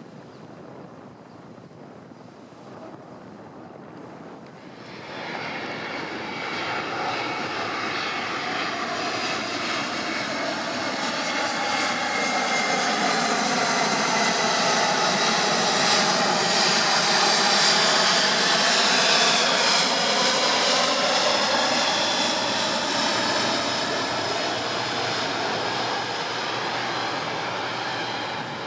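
Boeing C-17 Globemaster III's four turbofan engines on a display pass. The jet noise comes in about five seconds in, grows to a peak midway with a sweeping, shifting tone as the aircraft passes, then eases slightly near the end.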